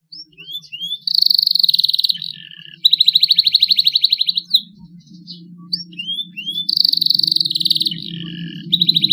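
Young domestic canary singing: a few short rising chirps, then long fast trills (rolls) with a lower held note between them. The phrase comes twice, over a faint low hum.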